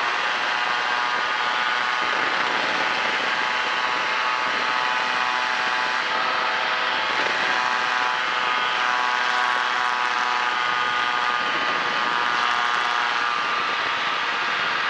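Kolb Firefly ultralight airplane's engine and propeller running steadily, heard from a camera on board.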